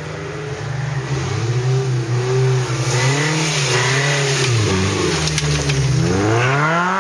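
A trial 4x4's engine revving up and down again and again as it claws up a steep dirt slope under load, with a sharp climb in revs near the end.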